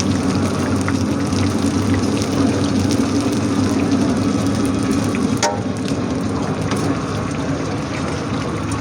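Steady sizzling of food frying in a karahi, over a low hum that drops away about five and a half seconds in.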